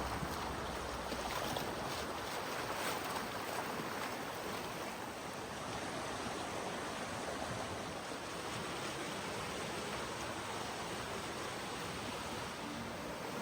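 Mountain creek running high after storms, a steady rush of flowing water.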